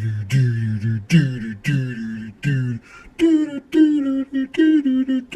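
A voice making a series of short calls, each falling in pitch, about two a second: five deeper calls, then after about three seconds a run of higher ones.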